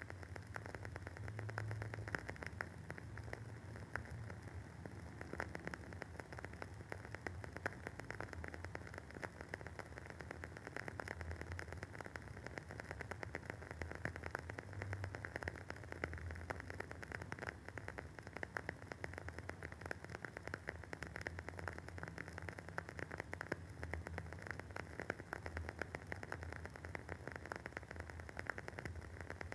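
Wooden wick of a WoodWick candle crackling as it burns: a dense, steady run of tiny crackles and pops.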